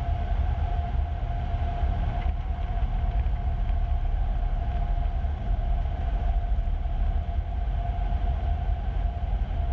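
Cessna 150's engine and propeller droning steadily in the cockpit, picked up through the aircraft's intercom audio: a constant low rumble with a thin steady hum above it.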